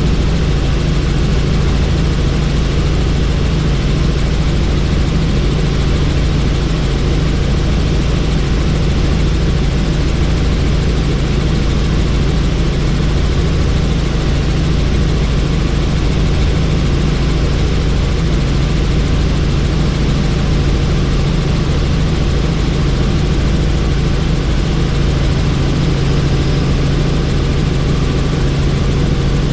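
Helicopter in flight: a steady, loud drone of rotor and engine heard from inside the cabin of a doors-off helicopter, with rushing air noise. It does not change throughout.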